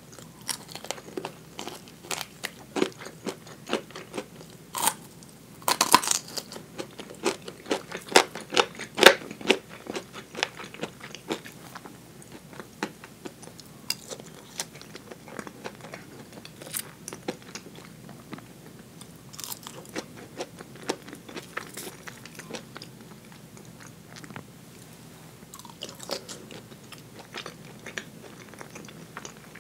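Close-miked eating of fried chicken drumettes: the crisp coating crunches and crackles under bites, with wet chewing between. The louder crunches come in the first third, and the rest is quieter chewing.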